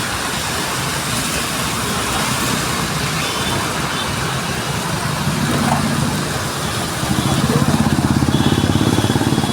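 Steady hiss of rain and street traffic. About seven seconds in, a motorcycle engine idles close by with a rapid, even pulse and becomes the loudest sound.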